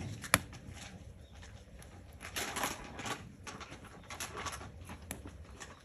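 Irregular crackling and clicking from cooking over a wood fire, with one sharp snap about a third of a second in and clusters of crackles in the middle.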